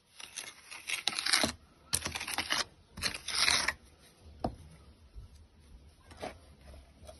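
Three bursts of harsh scraping or rasping, each under a second long, in the first four seconds, then two short knocks.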